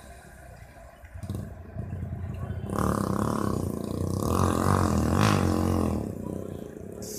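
Electric locomotive-hauled train approaching, its rumble growing louder from about a second in and easing near the end. Two higher-pitched tones sound in the middle.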